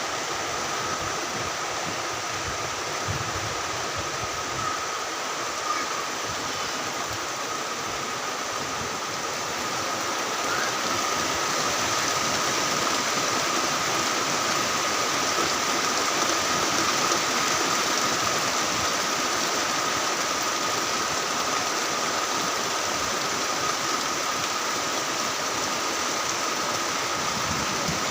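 Heavy rain falling steadily, a thick even hiss that grows a little louder about ten seconds in. A thin steady high tone runs through it.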